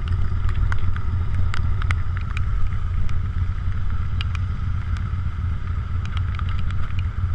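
Motorcycle engine idling at low revs, a steady low rumble, with scattered sharp ticks over it.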